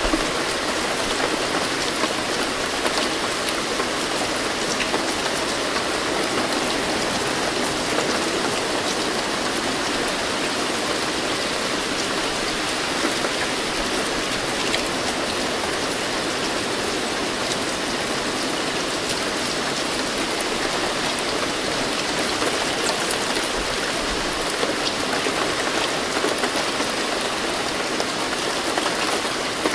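Steady rainfall: an even patter of raindrops on surfaces, with faint individual drop ticks and no thunder.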